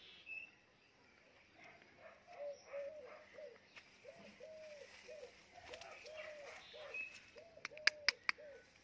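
Faint, soft bird cooing: a run of short, low, arched notes repeated steadily, with a few sharp clicks near the end.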